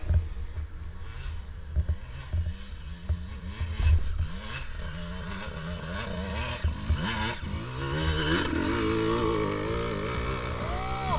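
Dirt bike engine revved in short repeated bursts, its pitch rising with each blip of the throttle, then held at higher revs about eight seconds in, under low rattles and thumps. The bike is labouring its way up a climb.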